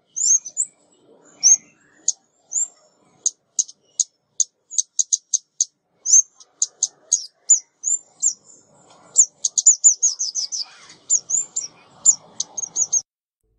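Decoy recording of a female ốc mít bird calling: a long series of short, high, sharp chips, some sliding downward, crowding into a fast run about ten seconds in and stopping just before the end.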